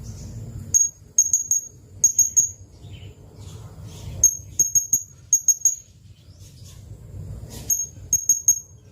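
Blue-crowned hanging parrot (serindit) calling: short, sharp, high-pitched notes in quick runs of two to four, repeated several times with brief pauses, over a low background rumble.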